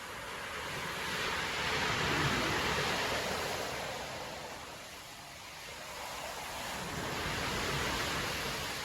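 Rough storm surf breaking and rushing up a beach, in two swelling surges: the first and loudest about two seconds in, the second near the end.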